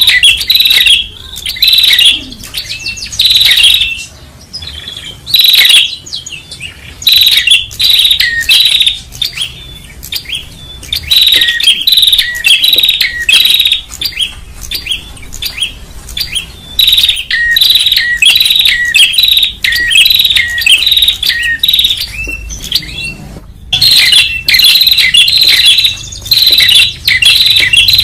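Prenjak, a small Indonesian warbler, calling loudly and noisily in fast runs of sharp, repeated chirps with short pauses between them. It is the rowdy calling used as a lure for prenjak.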